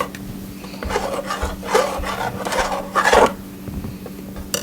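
A spoon scraping and stirring in a metal cooking pot, several rasping strokes through the middle, over a steady low hum, with a sharp click near the end.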